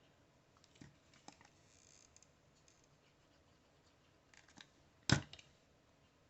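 Faint rustling and light clicks of cut paper pieces being handled and fitted together, with one sharp tap about five seconds in.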